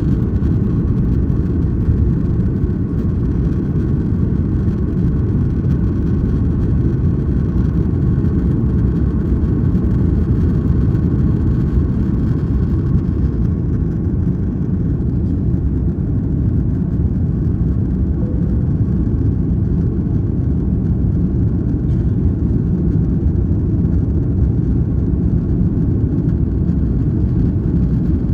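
Jet airliner cabin noise during the climb after takeoff: a steady low rumble of engines and airflow heard from inside the cabin.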